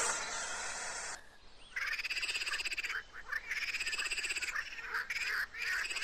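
A hissing noise for about the first second, then an animal's rapid pulsed trilling calls, frog-like, in four bursts, the first two each over a second long and the last two short.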